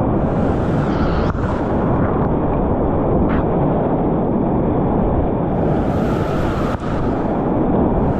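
Whitewater rapids of a river at high flow, a loud, steady rushing of water.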